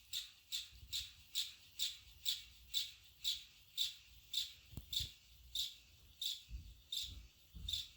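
Canarm Twister three-blade ceiling fan coasting down after switch-off, with a faint squeak about twice a second that slows a little as the fan loses speed; the owner puts the squeaking down to the motor rubbing on its housing while the fan sits on the floor. A single knock about five seconds in.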